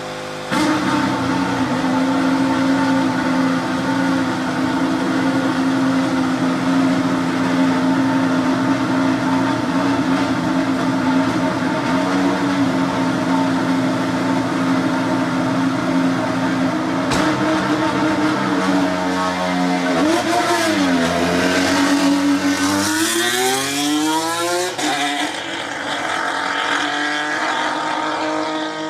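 Alpine A521 Formula 1 car's 1.6-litre turbocharged V6 hybrid engine running at steady high revs for about twenty seconds. Then the revs dip and rise, and climb in a quick series of upshifts before settling steady again near the end.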